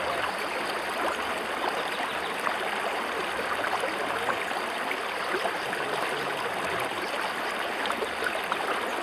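Stream water rushing steadily, a continuous even hiss.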